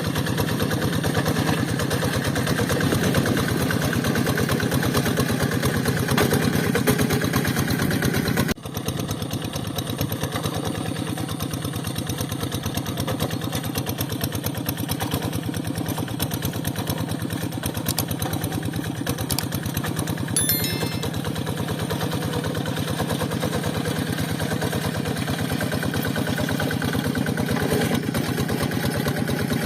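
Rice-field tractor's engine running steadily with an even pulsing beat, broken off for an instant about eight seconds in.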